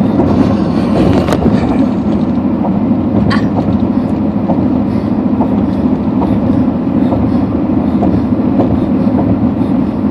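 Steady car cabin noise while driving: a low hum of engine and tyres on the road, with a couple of faint clicks in the first few seconds.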